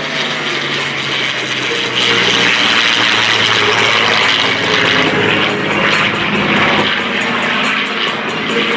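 An F4U Corsair with its radial engine and a P-51 Mustang with its Merlin V-12 passing in formation as they break apart, their piston engines and propellers droning steadily. The sound grows louder about two seconds in.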